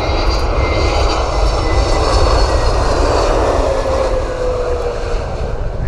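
Jet airliner's engines passing close by: a loud roar swells to a peak a couple of seconds in, then eases off as a whining tone slides down in pitch.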